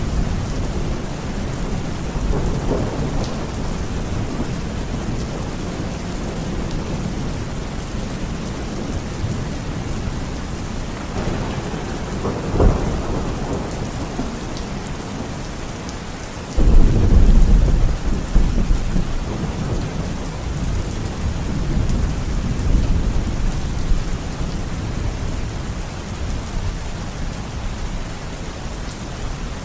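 Steady rain falling, with thunder: a sharp crack about twelve seconds in, then a sudden loud low rumble a few seconds later that rolls on and fades over several seconds.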